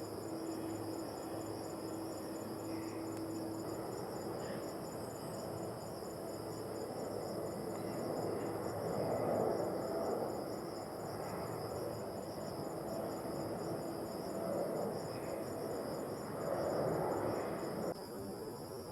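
Insects chirring steadily in a high, even drone, over a low rumbling noise that swells twice, about halfway through and again near the end.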